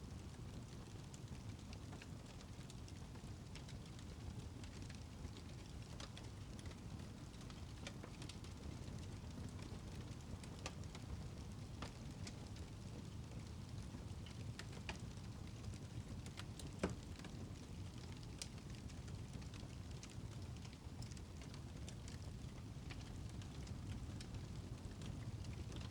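Wood fire crackling in a fireplace: a steady low rumble of flames with scattered small crackles and pops, and one sharper pop about seventeen seconds in.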